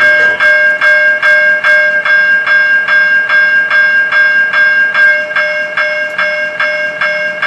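Railroad crossing bell ringing loudly and steadily, about two and a half strikes a second, each strike ringing on, as the crossing warning activates for an approaching train.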